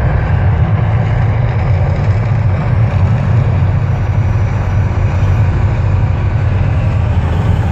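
Deep, steady rumbling of the Mirage's volcano show effect, loud and continuous.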